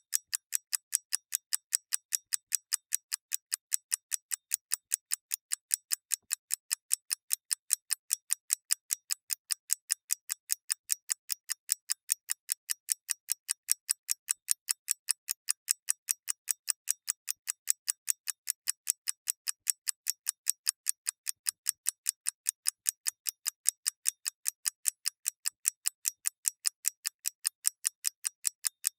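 Clockwork mechanism ticking steadily: sharp, bright, evenly spaced ticks, several a second, with no change in pace.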